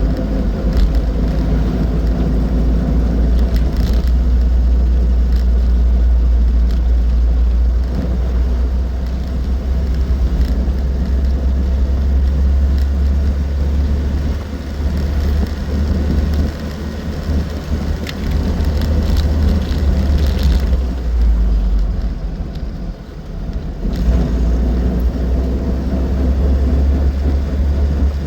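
An Austin Seven Ruby being driven: its small four-cylinder side-valve engine and road noise make a steady low rumble, which eases off briefly about twenty seconds in and then comes back.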